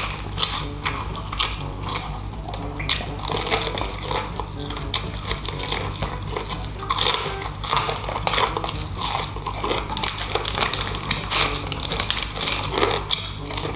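Close-up eating sounds: chewing, biting and lip-smacking as fried chicken and rice are eaten by hand, in irregular short smacks and crunches, over soft background music.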